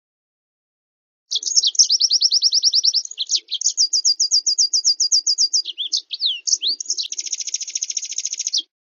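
Recorded song of a small songbird played as a bird-training master track. After about a second of silence, it sings a fast run of repeated high downslurred notes, about ten a second, then changes to a different repeated phrase and ends in a rapid buzzy trill that cuts off suddenly near the end.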